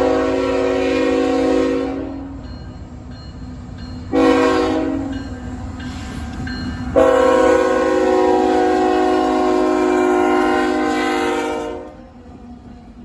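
CSX freight locomotive air horn sounding a grade-crossing signal: a long blast ending about two seconds in, a short blast near four seconds, then a long blast of about five seconds, over the low rumble of the approaching train.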